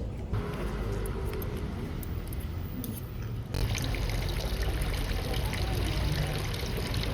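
Water running or pouring, a steady splashing wash, with two abrupt changes in the sound partway through.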